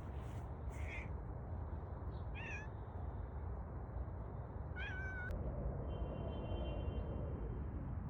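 A cat meowing three times in short, high-pitched calls, over a steady low rumble.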